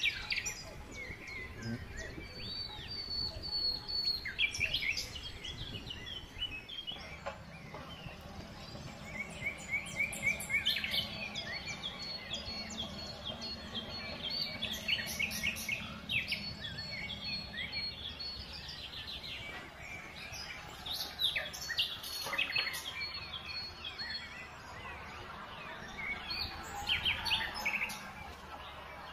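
Many small songbirds chirping and trilling, with the low, steady hum of a tractor engine underneath from about seven seconds in.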